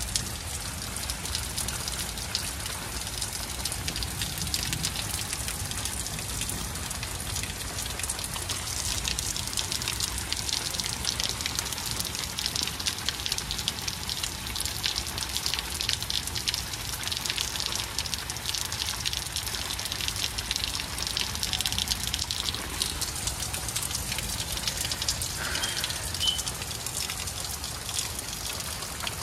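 Heavy rain falling in a thunderstorm, a dense patter of drops that grows heavier for a stretch in the middle and then eases a little.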